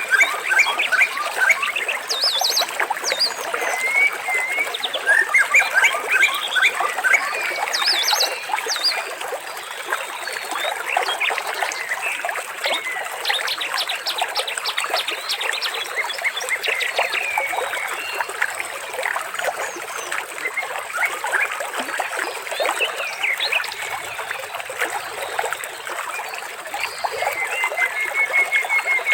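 A dense chorus of birds chirping, trilling and whistling over a steady trickle of water.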